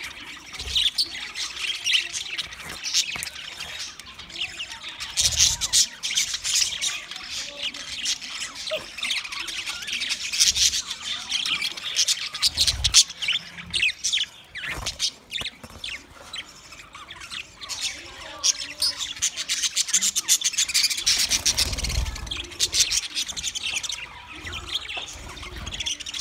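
A large flock of budgerigars chirping and chattering together: a dense, continuous din of short high chirps and squawks. A few low thumps sound underneath.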